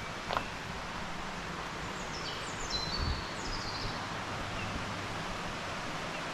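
Outdoor ambience: a steady rushing hiss, with a small bird giving a few short chirps that drop in pitch about halfway through. Two brief clicks right at the start.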